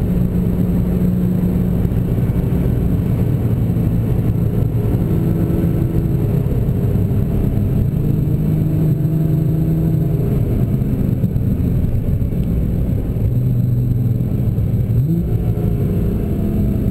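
Nissan GT-R's twin-turbo V6 heard from inside the cabin, a steady low drone with road noise while the car slows. About fifteen seconds in, the engine pitch rises briefly.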